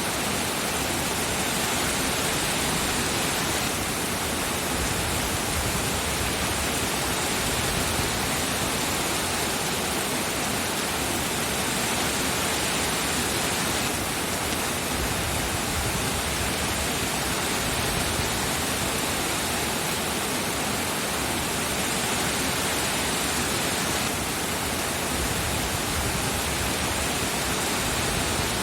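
Steady rain, an unbroken even hiss with no single drops or thunder standing out.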